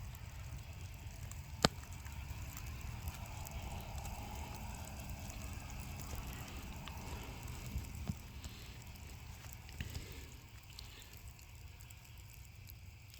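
Steady low background rumble, with one sharp click about one and a half seconds in and a few faint ticks later.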